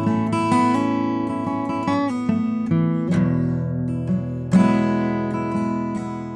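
Acoustic guitar playing the intro of a song: chords strummed and left to ring out and fade between strokes.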